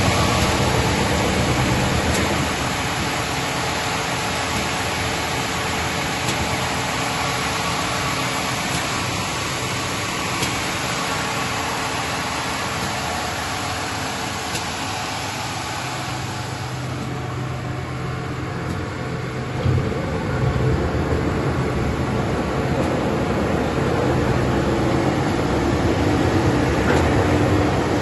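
Levigaltecnica SRRN 1100 wide belt sander running with a steady machine noise. About two-thirds of the way in, the hiss drops away and a low hum comes forward, then the noise grows louder again toward the end.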